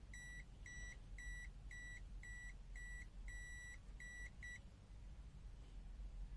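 CZD FS898 digital multimeter beeping in its non-contact voltage (NCV) mode: a string of short, high-pitched beeps, about two a second, with one longer beep in the middle, stopping abruptly after about four and a half seconds. The beeping signals that the meter senses a live wire close by.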